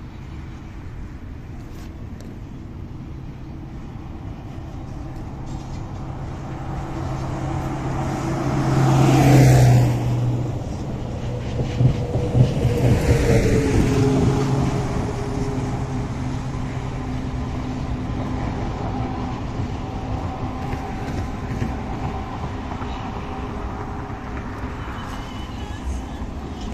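Double-stack container freight train rolling across a railway bridge with a steady rumble. Road vehicles pass close by twice, about nine and thirteen seconds in, and their falling pitch makes them the loudest moments.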